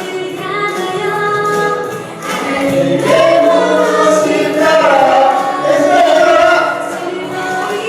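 A group of voices singing a praise song together with musical backing, the sung notes held and gliding without a break.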